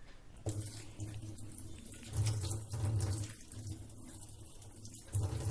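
Tap water running and splashing in a sink while a stainless steel electric kettle is washed, starting about half a second in and rising and falling in loudness.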